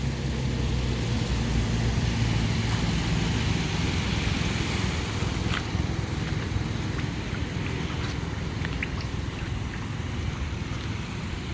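Car engine idling steadily, a low hum under a rush of wind noise, with a few faint clicks.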